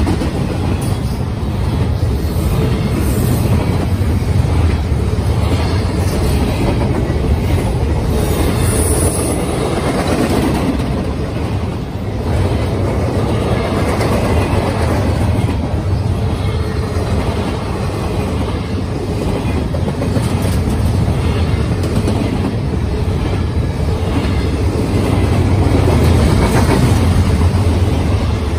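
Double-stack intermodal freight cars of a Norfolk Southern train rolling steadily past: a continuous low rumble and clatter of steel wheels on the rails, with a brief high wheel squeal now and then.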